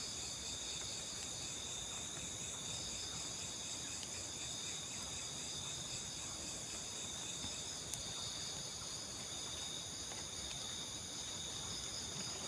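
Steady chorus of crickets and other insects, several high-pitched trills layered continuously over a soft hiss. A single faint click about eight seconds in.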